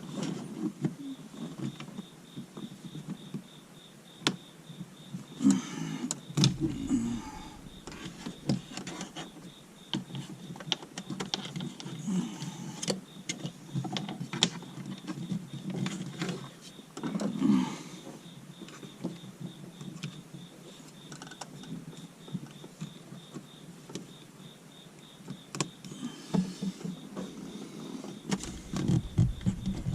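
Hands working dash cam wiring into a car's plastic interior trim: scattered clicks, taps and rustling of cable and trim panels being pushed and handled.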